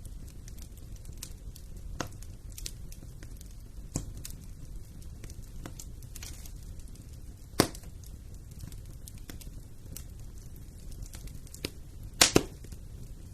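Wood fire in a fireplace crackling: a low steady rumble of flames with scattered sharp pops. A loud pop comes just past the middle, and the loudest, a quick double pop, comes near the end.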